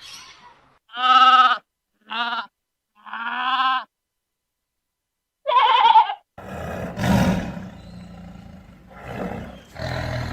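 Animal calls: three short pitched cries in the first four seconds, then after a pause of nearly two seconds another cry, followed by a rougher, noisier stretch of animal sound.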